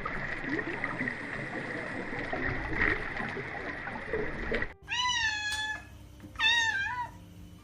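A cat meowing twice, two drawn-out calls about a second apart, after several seconds of steady noisy background hiss.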